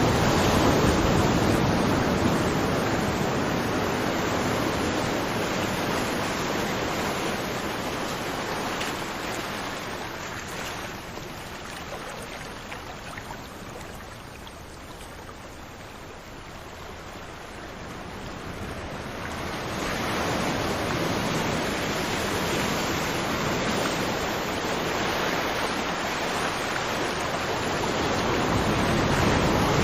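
Ocean surf washing onto a beach: a continuous rush of waves that ebbs to its quietest about halfway through, then swells back up.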